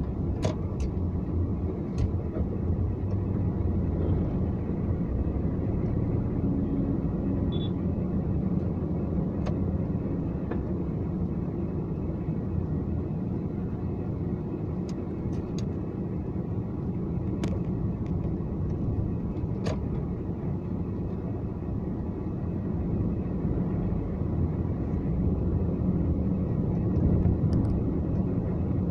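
A car being driven, with a steady low rumble of engine and road noise. A few light clicks sound now and then.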